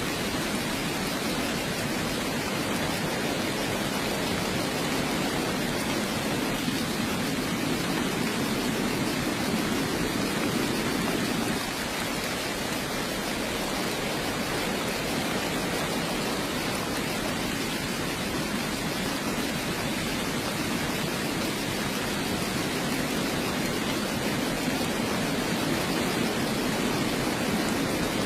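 Heavy rain falling steadily, a dense even hiss with a fuller low rush that swells a little twice.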